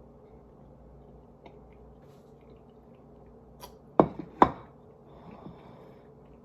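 Two sharp knocks about half a second apart, some four seconds in, over a low steady hum.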